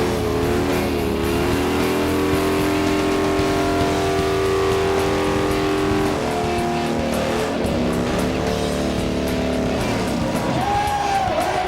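Motorcycle engines running, mixed with music, with a short rising-and-falling squeal near the end.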